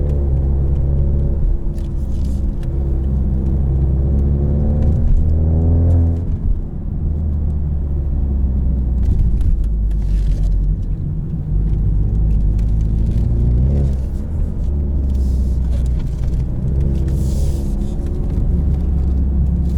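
Ford Mustang EcoBoost's 2.3-litre turbocharged four-cylinder running through its active-valve performance exhaust while driving. The engine note climbs from about four seconds in, drops suddenly at a gearshift around six seconds, and rises again briefly near fourteen seconds.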